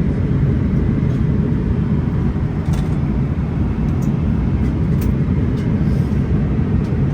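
Steady low rumble of airliner cabin noise in flight aboard a Boeing 777-300ER, the constant drone of airflow and GE90 engines, with a few faint clicks.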